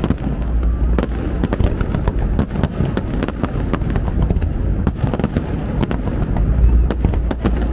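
Aerial fireworks display going off continuously: a dense run of bangs and crackling pops over a steady low rumble of booming shells.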